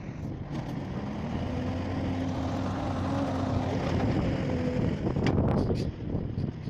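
Mack gin pole truck's diesel engine running steadily, with a steady whine over it that stops about five seconds in, followed by a few sharp knocks.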